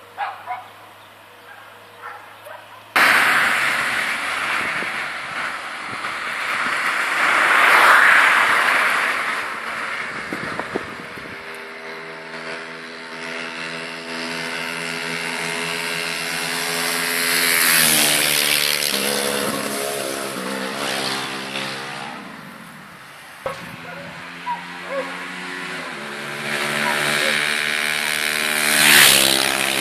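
Small motorcycle engine revving hard as the bike rides past several times. It starts loud about three seconds in, with the loudest passes near eight, eighteen and twenty-nine seconds, and the engine pitch changes in steps as it shifts or changes revs.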